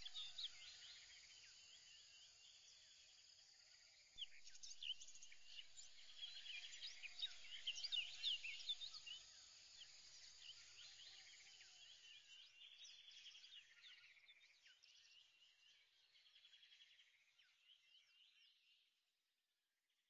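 Faint birdsong: many short chirps and rapid trills from several birds, growing louder a few seconds in and fading away near the end.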